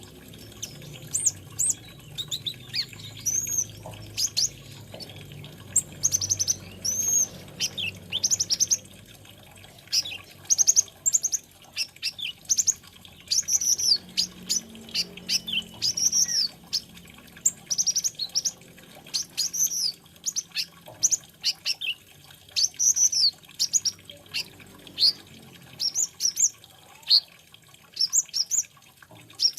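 Kolibri ninja (konin), a sunbird, singing a fast, busy twitter of thin, high chirps and short arching whistled notes, delivered in quick runs with brief gaps between them.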